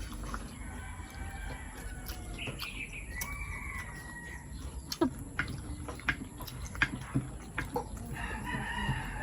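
A rooster crowing twice: one long call starting about half a second in, and another near the end. A few sharp clicks fall between the calls.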